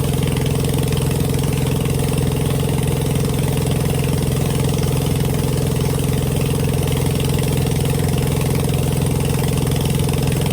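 An engine idling steadily, with an even low drone that does not change.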